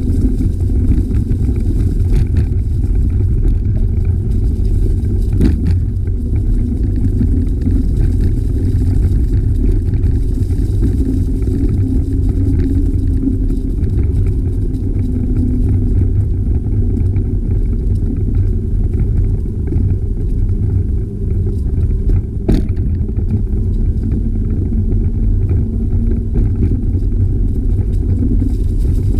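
Steady low rumble of wind buffeting the microphone of a moving bicycle, with a few short knocks, the sharpest about two-thirds of the way through.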